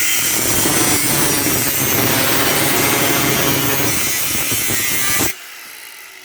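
Power cutter, most likely an angle grinder with a cut-off wheel, running as it cuts through a steel bedframe rail, then cutting off abruptly about five seconds in.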